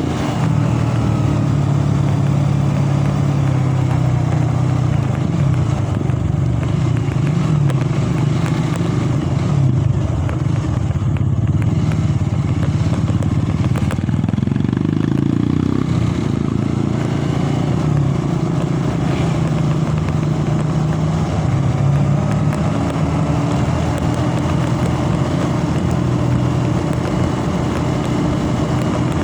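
Motorcycle engine running continuously while under way, its pitch shifting with the throttle and rising about halfway through, over steady road and wind noise.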